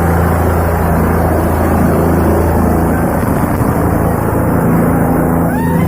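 Helicopter's rotor and turbine engine running steadily and loudly, with a constant low hum.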